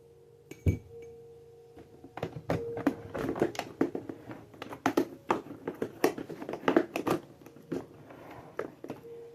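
A thump, then a quick run of clicks, knocks and rattles from handling a Bissell PowerForce 6596 vacuum cleaner and plugging in its power cord. The vacuum's motor does not start: it is dead.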